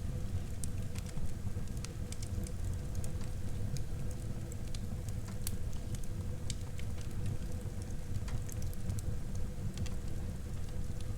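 Wood fire burning in a fireplace: a low, steady rumble of flames with frequent small, irregular crackles and pops.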